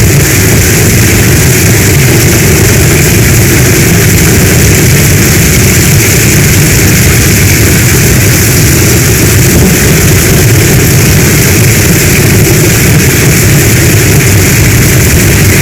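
Heavy storm rain falling in a loud, steady hiss with a deep low rumble underneath, unchanging throughout.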